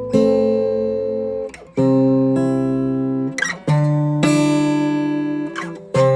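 Acoustic guitar music: slow strummed chords left to ring, with a new chord about every one to two seconds.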